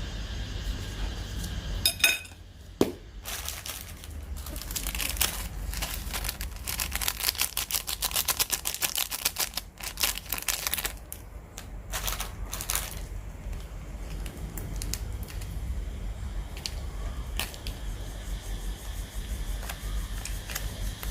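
Kitchen handling noises during instant-noodle preparation: a couple of sharp knocks, then a long run of quick clicks, taps and crinkles, over a steady low hum.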